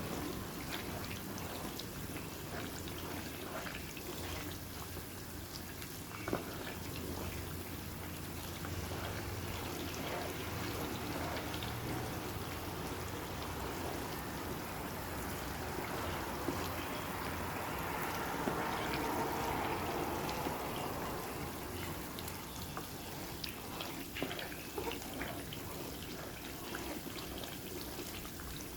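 Cooking oil gently bubbling and sizzling in a pan, with scattered small pops; it swells a little past the middle.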